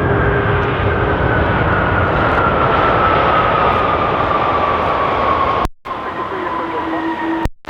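Jet airliner's engines passing close by: a loud, steady rush with a whine that slides down in pitch as the aircraft goes past. The sound drops out briefly a little before six seconds in.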